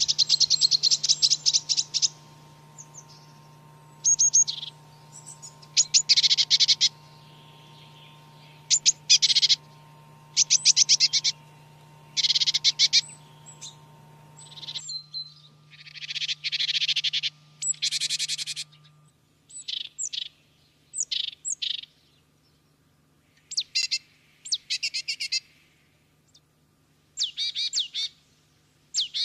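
Canary singing in phrases of rapid trilled notes, each phrase about a second long, with short pauses between them.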